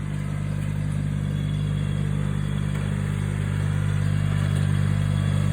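Lawn tractor engine running steadily while it tows a lawn sweeper over the grass, growing slightly louder toward the end.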